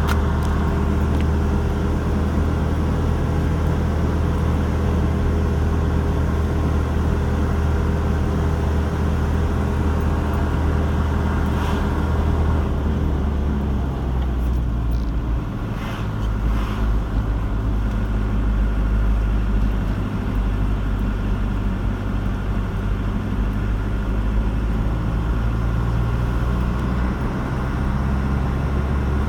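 Car being driven on a road: a steady low engine and road hum. Its pitch shifts about halfway through as the engine speed changes.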